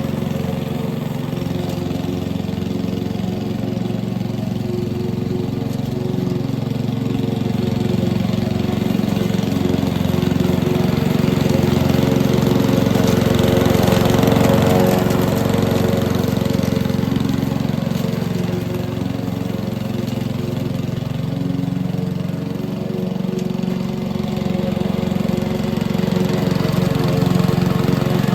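Petrol lawn mower engine running steadily under load, growing louder about halfway through and again near the end as it passes closer.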